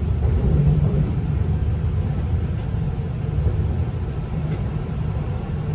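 A steady low rumble that stops abruptly at the end.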